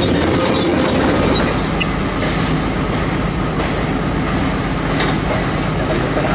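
Large crawler hydraulic excavator working, its diesel engine running steadily under load with metallic clanking and a few sharp knocks.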